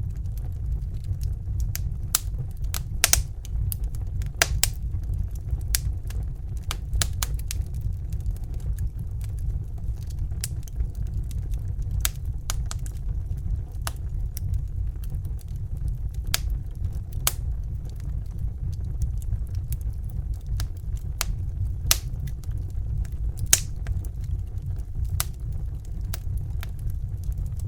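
Steady low roar of a Bunsen burner flame, with the irregular sharp pops and crackles of a burning wood fire over it.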